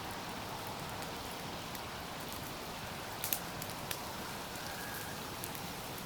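Campfire crackling, with scattered sharp pops, the loudest a quick double pop about halfway through, over a steady rush of flowing river water.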